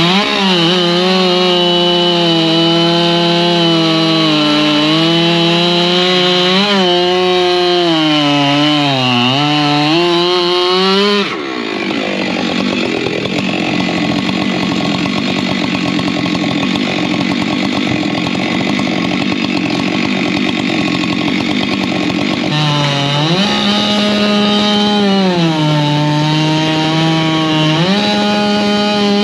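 Two-stroke chainsaw running hard while cutting wood, its engine pitch dipping and recovering as the chain bites. About eleven seconds in, the sound turns to a rough, noisy sawing with no clear engine tone for about ten seconds. The steady engine note then returns, rising and falling.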